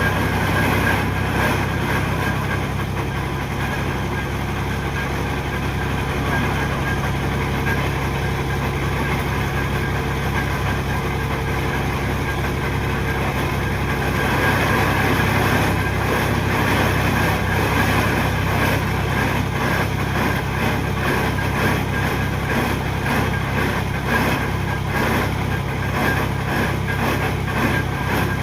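Engine of piling machinery running steadily, a little louder from about halfway through.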